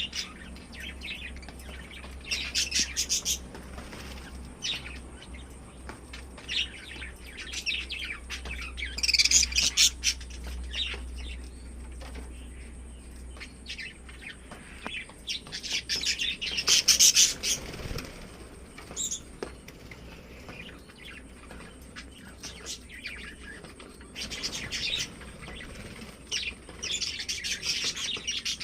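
Lovebirds chirping: clusters of shrill, rapid chirps come every few seconds, with quieter single chirps in between.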